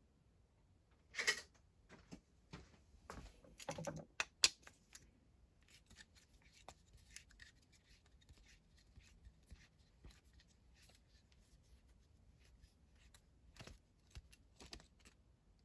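Small metal clicks, taps and scrapes of hand tools and parts handled while a carburettor is being taken apart. A cluster of louder knocks comes from about one to four and a half seconds in, then a long run of faint ticks.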